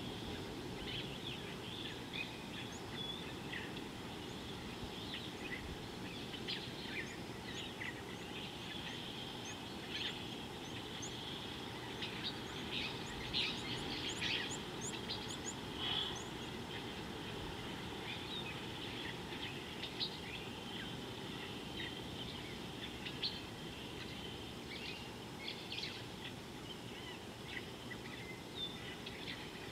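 Wild birds chirping and calling in scattered short notes over steady background noise, with a quick run of high, thin notes about halfway through.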